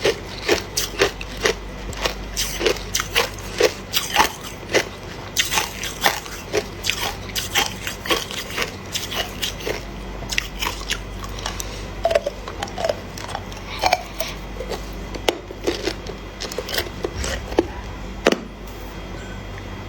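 Hard ice being bitten and chewed close to the microphone: irregular sharp cracks and crunches, several a second, over a steady low hum. The crunching stops shortly before the end.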